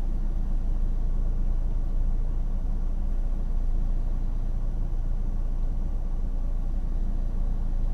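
Steady rumble of a car's engine and tyres on the road while driving.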